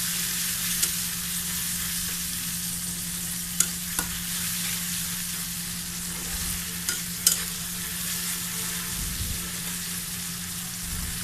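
Spice paste of yogurt, chili, turmeric and cumin sizzling in oil in a karai as it is sautéed until the oil separates, with a handful of sharp knocks of the spatula against the pan. A steady low hum runs underneath.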